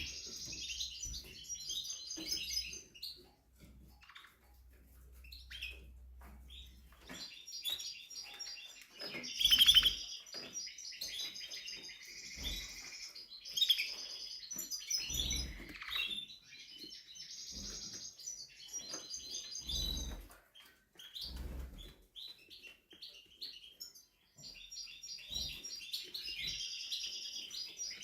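Timbrado canary singing in phrases of rapid trills and repeated notes, broken by pauses of a few seconds. A few soft low thumps come in between, the loudest about ten seconds in.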